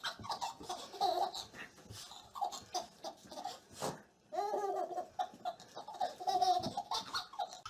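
A baby laughing in quick repeated bursts, then, after a short pause about four seconds in, longer high-pitched laughs.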